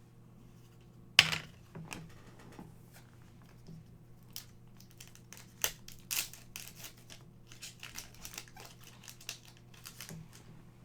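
A trading-card pack's foil wrapper is torn open sharply about a second in, then crinkled, and the cards inside are handled and shuffled with many short rustles.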